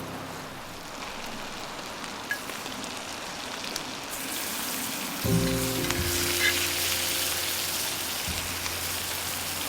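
A steady hiss, like rain or food sizzling, that grows brighter about four seconds in; background music with low held notes comes in just past the halfway point.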